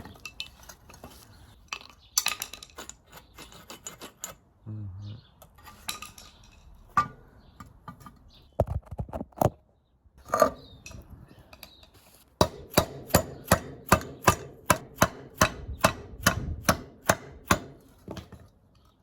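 Scattered knocks and tool clatter, then from about twelve seconds in a steady run of sharp hammer blows, roughly three a second, driving a worn suspension bushing out of its mount.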